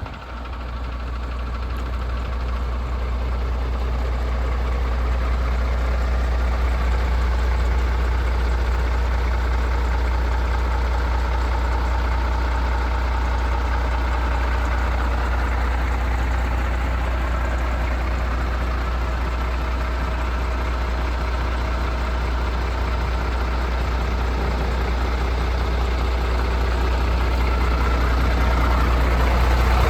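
The MAN TGX 26.470 tractor unit's 470 bhp Euro 6 straight-six diesel idling steadily with a deep, even hum.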